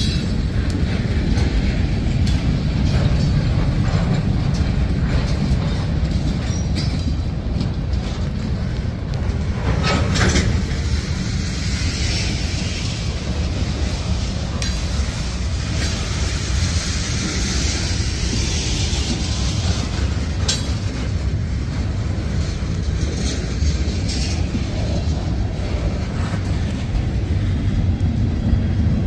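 Freight train's covered hoppers and tank cars rolling past close by: a steady low rumble of steel wheels on rail. Sharp clanks come about ten seconds in and again about twenty seconds in, and a higher hissing wheel noise rises for several seconds in the middle.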